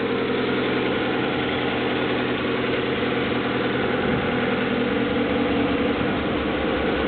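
Honda F22 2.2-litre four-cylinder SOHC VTEC engine idling steadily and smoothly after a cold start, with intake air hissing through its cold air intake filter.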